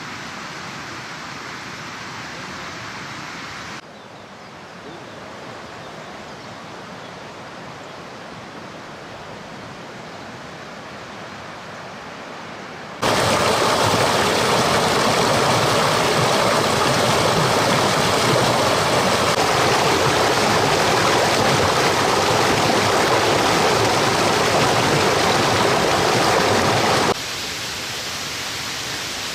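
Steady rushing noise of running water, cut abruptly into several segments: quieter at first, much louder for about fourteen seconds in the middle, then dropping again near the end.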